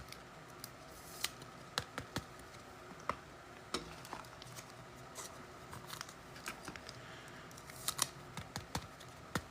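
Trading cards and packs being handled: scattered light clicks and flicks, about one or two a second.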